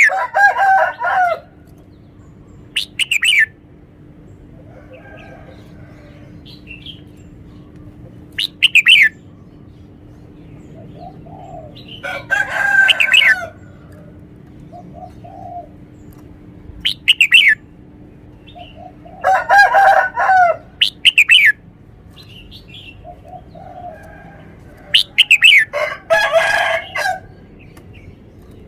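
Red-whiskered bulbul singing loud, clear song phrases, about seven in all, spaced a few seconds apart. Each phrase is a run of quick falling whistles and a rich warbled burst.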